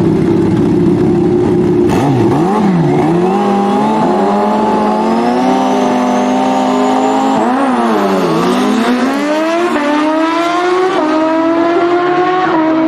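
BMW S1000RR's inline-four engine running under way. The revs dip and recover twice, then climb steadily in pitch through the second half.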